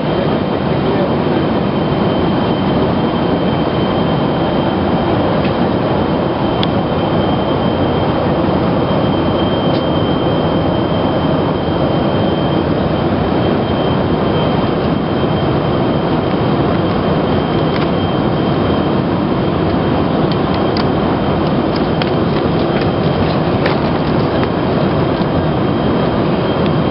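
Steady in-flight cabin noise of a Boeing 747-400 airliner: engine and airflow noise. A faint high steady tone sits over it, with a few light clicks.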